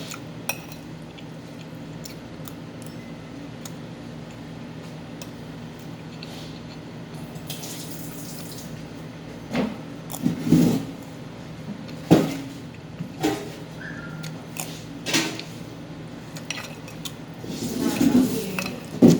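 Cutlery clinking against a plate and bowl now and then during a meal, a few sharp clinks with the loudest about twelve seconds in and a cluster near the end, over a steady low hum.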